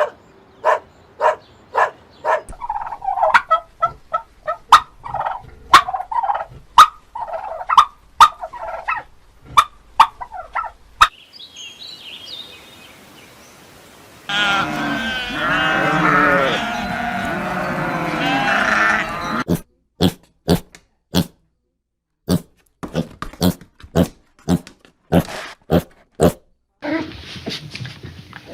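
Farm animal calls. First come repeated short calls mixed with sharp clicks, then a dense chorus of many animals calling over one another for about five seconds, and near the end a run of sharp clicks.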